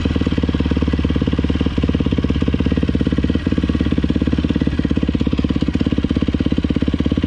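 Yamaha YZ250F dirt bike's four-stroke single-cylinder engine idling steadily, with an even, rapid pulse.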